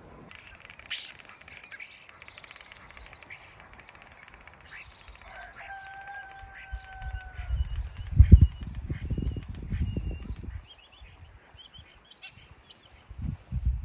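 Small birds chirping and singing, with one long, slightly falling whistle about six seconds in. Irregular low rumbles come in from about eight seconds, loudest around eight seconds.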